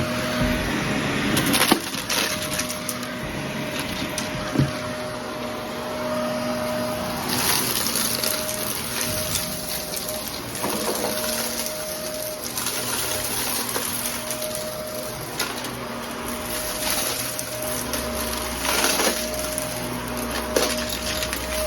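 Vacuum cleaner running with a steady motor hum, sucking up scattered test debris that crackles and rattles through it in repeated surges.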